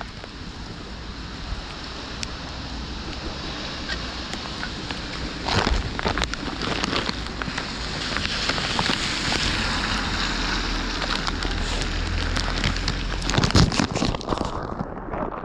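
Rain falling, with sharp drops ticking close to the microphone. A louder rushing noise with a low rumble builds through the middle and stops about a second before the end.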